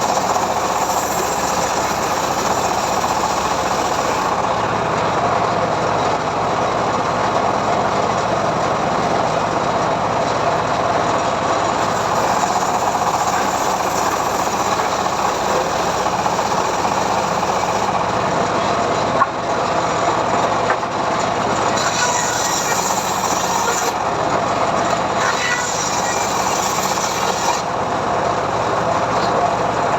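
Homemade engine-driven sawmill running steadily as it rips a mahogany log, with a single sharp click about two-thirds of the way through.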